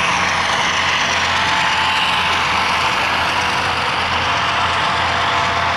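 Steady running noise around a model railroad layout: an even hiss over a constant low hum, with no single event standing out.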